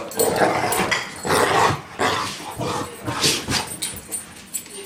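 Dogs playing rough: a run of irregular growls, snorts and short sharp sneezes, the play sneezes dogs give while wrestling, loudest in the first couple of seconds and tailing off.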